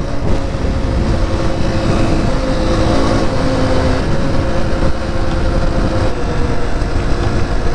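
A Honda CRF250F dirt bike's single-cylinder four-stroke engine running at a steady cruising speed, with heavy wind rumbling on the microphone.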